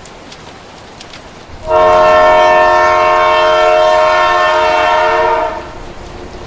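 Train horn sounding one long, loud, steady blast of about four seconds, starting a second and a half in and then fading out, over the low rumble of the train. A steady hiss comes before it.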